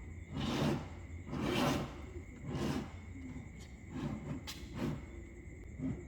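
Small magnetic balls being slid and pushed across a surface: a series of soft swishing scrapes about once a second, then lighter clicks, with one sharp click about four and a half seconds in.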